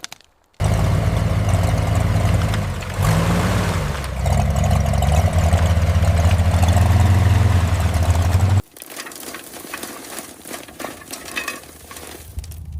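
An engine running steadily, with a brief shift in pitch a few seconds in. It cuts in suddenly just after the start and cuts off suddenly about two-thirds of the way through. Scattered light clicks and knocks follow.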